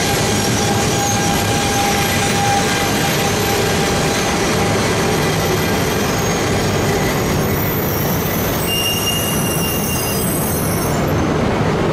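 E926 'East i' Shinkansen inspection train rolling along the platform, a steady rumble of wheels and running gear. High thin wheel squeals join in from a little past the middle.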